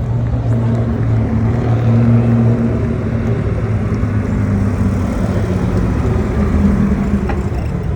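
Vintage car engine running steadily with a low hum, its pitch dipping and rising slightly in the second half.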